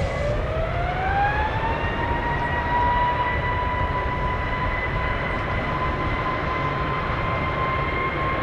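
Airliner jet engines running with a whine that rises in pitch over the first couple of seconds and then holds steady, over a low rumble.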